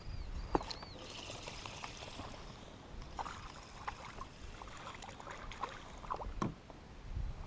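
Scattered light knocks and clicks of gear being handled in a fishing kayak, with a short hiss of water about a second in.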